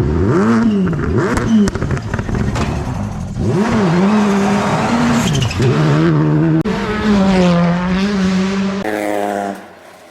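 Rally car engine at full racing effort, its pitch climbing and then dropping sharply again and again through gear changes and lifts. The sound cuts off suddenly near the end.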